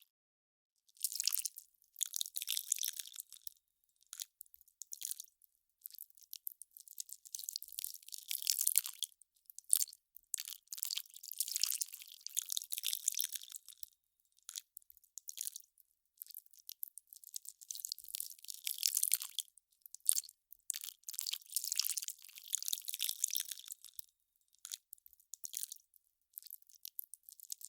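Melting ice crackling and popping: irregular clusters of fine, high-pitched crackles, each lasting a second or two, with short pauses between them.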